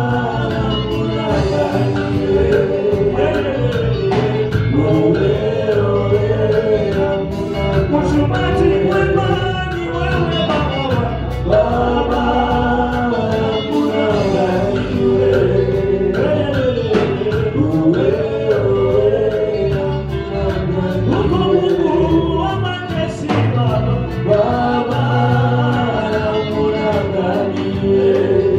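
Gospel worship song: voices singing a melody together over a band, with steady low bass notes and an even percussion beat.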